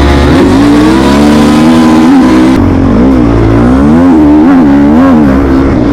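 Honda CRF snowbike's single-cylinder four-stroke engine revving loud and hard, its pitch climbing and then rising and falling repeatedly as the throttle is worked.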